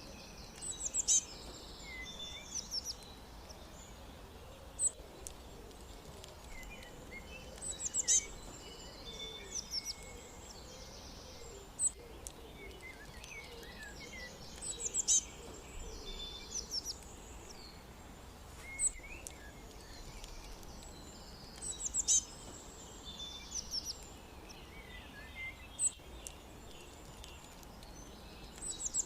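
Small songbirds chirping and twittering in high, quick notes, with a cluster of calls about every seven seconds and single sharp chirps between them, over a steady low background rumble.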